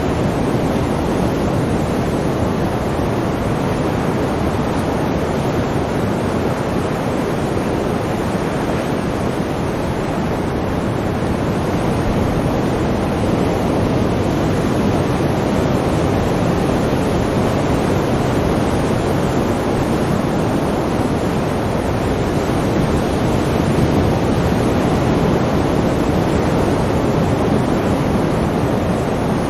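Sea waves and surf: a continuous, dense wash of water that swells and eases slowly, without separate crashes.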